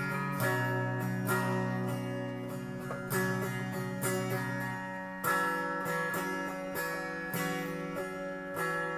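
Guitar music: chords strummed and picked in a loose rhythm, shifting to a new chord about five seconds in.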